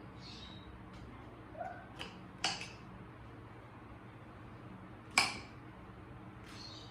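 Kitchen items being handled: three sharp clicks or knocks, about two seconds in, half a second later, and a louder one about five seconds in, over faint room tone.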